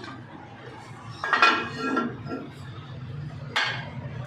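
Metal striking metal: a sharp clink that rings briefly, then a second shorter clink about two seconds later, over a low steady hum.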